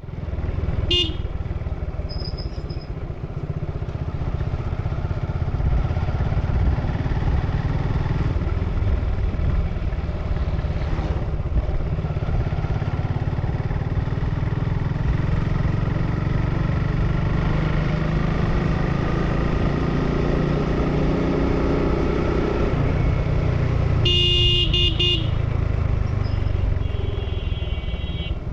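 Suzuki Gixxer motorcycle on its stock exhaust, running steadily while being ridden. A vehicle horn sounds briefly about a second in and again for about a second near the end.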